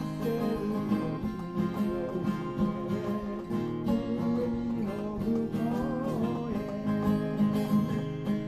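Acoustic guitar playing a steady accompaniment of chords, with a wavering melody line above it.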